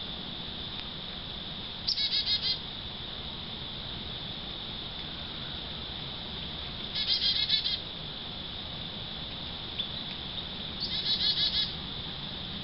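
A songbird calls three times, each a quick, chattering run of notes lasting under a second, about five seconds apart. Under the calls runs a steady, high-pitched drone of crickets.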